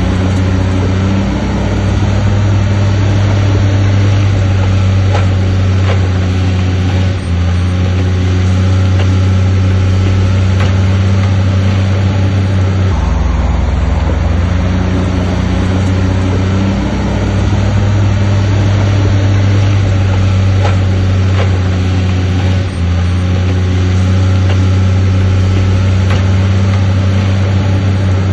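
Heavy earthmoving machine's diesel engine running under load. Its low hum shifts in pitch every few seconds as the load changes, with a few faint knocks over it.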